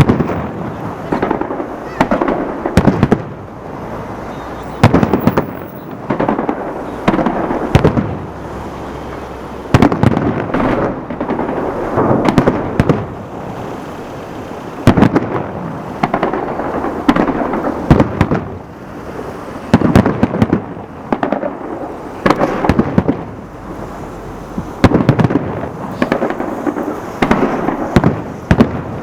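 Fireworks salute: loud bangs of shells bursting in the sky, arriving in quick clusters every second or two, each trailing a rumbling echo.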